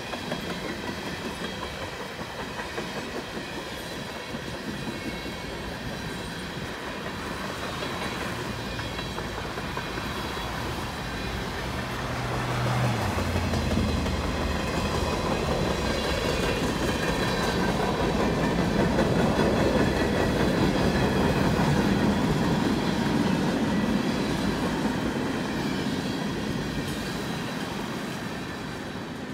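Freight train of loaded tank cars rolling past with a steady rumble and clickety-clack of wheels over the rail joints. It grows louder about halfway through and eases off near the end as the last cars go by.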